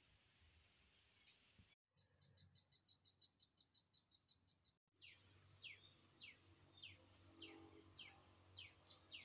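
Faint wild birds calling: a few brief chirps, then a rapid trill of short high notes at about eight a second, then, after about five seconds, a string of repeated downward-sweeping whistles about every half second.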